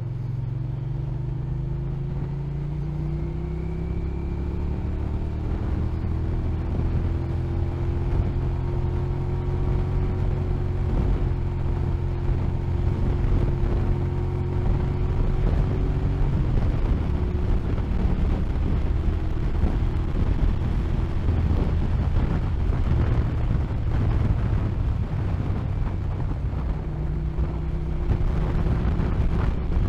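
Motorcycle engine running on the road, its pitch rising over the first few seconds as it picks up speed and then holding steady, with wind noise growing louder over the second half.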